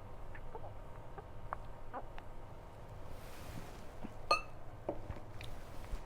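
Eating sounds: soft, scattered mouth clicks and chewing, with a brief hiss about three seconds in and one sharp ringing clink, like a utensil on a plate, a little after four seconds.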